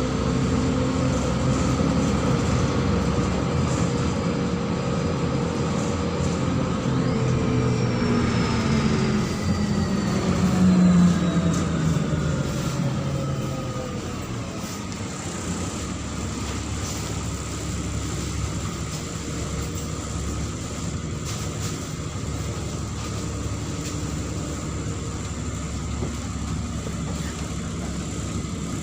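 Neman city bus heard on board, its diesel engine and drivetrain whine falling in pitch as it slows down over about fourteen seconds. It then runs at a steady, quieter idle.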